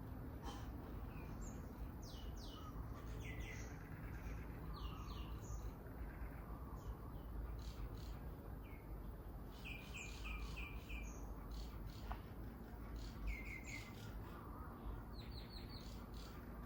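Small birds chirping: many short, quick notes that drop in pitch, often in fast runs of three to five, over a steady low background rumble.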